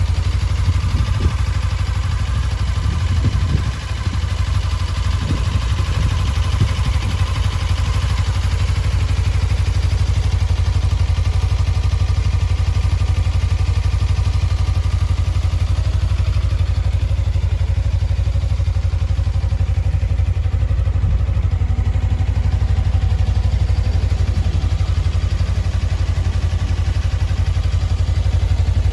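Suzuki V-Strom 250's 248 cc parallel-twin engine idling steadily, with a brief dip in level about four seconds in.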